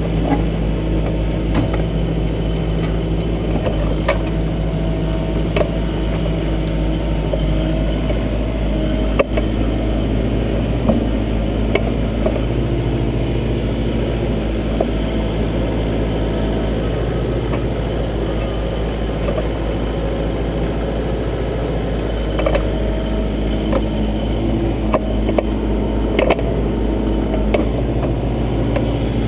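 Kubota backhoe's diesel engine running steadily under digging work, its note shifting a couple of times as the load changes. Scattered sharp knocks and clanks from the arm and bucket come through the arm-mounted camera.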